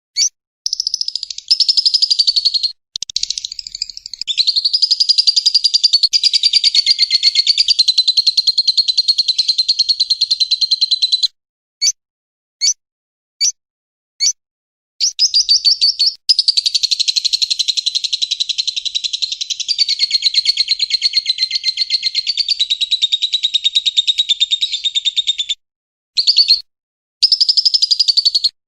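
A bird chattering in long, very rapid trills, one running about eight seconds and another about ten, with a few short separate chirps between them near the middle.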